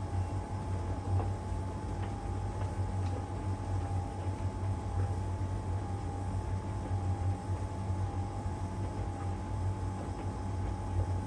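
LG heat pump tumble dryer running steadily in its drying stage: a low hum with a steady high whine over it and a few faint ticks.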